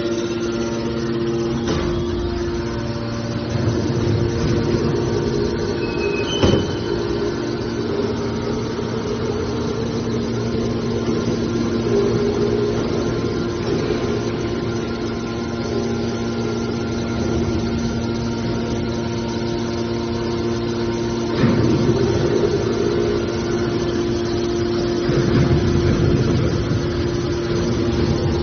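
Steel drum baler's hydraulic power unit running with a steady hum. A sharp clank comes about six seconds in, and there are louder, noisier stretches around twenty-one and twenty-five seconds in.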